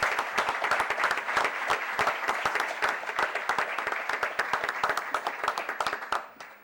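Audience applauding at the end of a speech, fading out over the last second.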